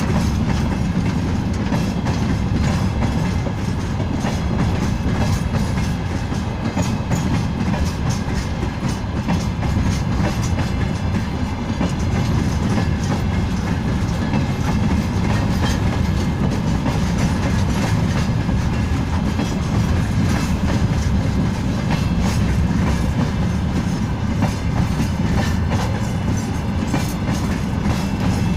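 Freight train wagons rolling past steadily, wheels clattering over the rail joints with a continuous rumble.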